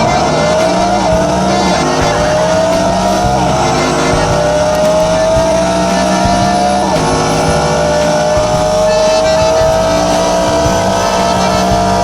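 Car engine under hard acceleration, its pitch climbing slowly and dropping sharply at gear changes about a second in and again about seven seconds in.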